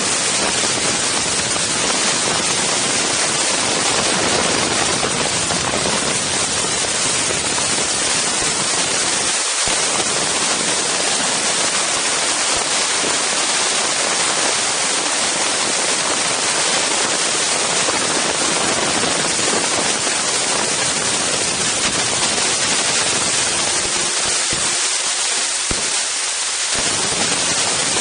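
Strong wind blowing across an Insta360 One X camera's microphone: a loud, steady rush of noise.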